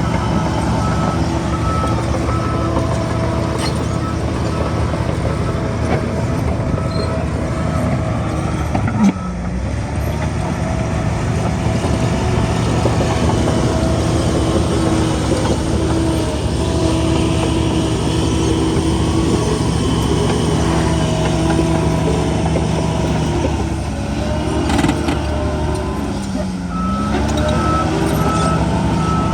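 Bulldozer's diesel engine running steadily under load, its pitch sagging and recovering about nine seconds in and again near the end. A reversing alarm beeps over it for the first third and starts again near the end, as the machine backs up.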